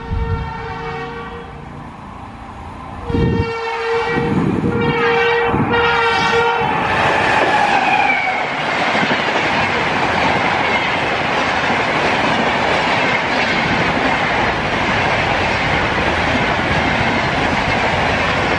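Electric locomotive horn of a Rajdhani Express: a short blast, a pause, then a longer sounding broken into about three blasts, its pitch falling as the locomotive passes about seven seconds in. Then the steady rush and wheel clatter of the train's LHB coaches passing close by at speed.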